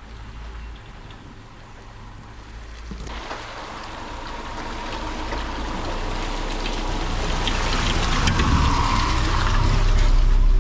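Subaru Forester driving on an off-road bush track: a low, steady engine rumble, joined about three seconds in by a rushing noise that swells steadily and is loudest near the end.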